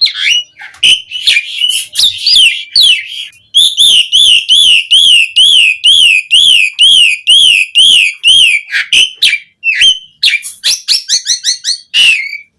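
Asian pied starling (jalak suren) singing loudly: a varied string of whistles and clicks, with a long even series of rising-and-falling whistled notes, about two or three a second, through the middle, and a quick chattering run near the end.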